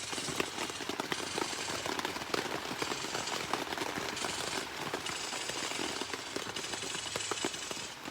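A kitchen knife peeling the skin off a cucumber: a steady run of rapid scratchy scraping strokes.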